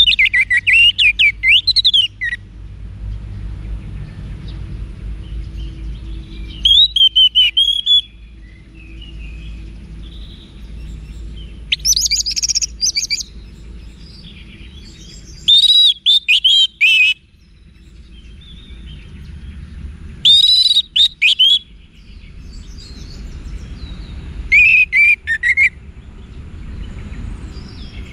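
Orange-headed thrush (anis merah) singing: six short, loud phrases of quick notes sliding up and down, a few seconds apart, over a steady low hum.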